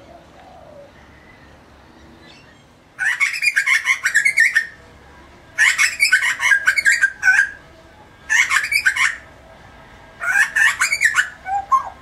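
Grey butcherbird calling: four loud phrases of quick notes, each one to two seconds long with short pauses between, beginning about three seconds in.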